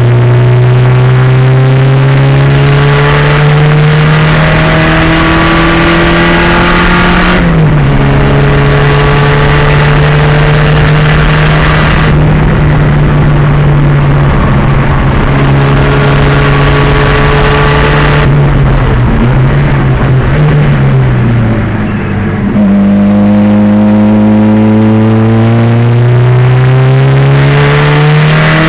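Turbocharged 2.0-litre four-cylinder in a 1987 Pontiac Fiero race car under hard acceleration, pitch climbing through the revs with a sharp drop at an upshift about a third of the way in. Past the middle the revs fall with a couple of short blips as it slows and downshifts, it lifts off briefly, then pulls hard again, rising steadily near the end.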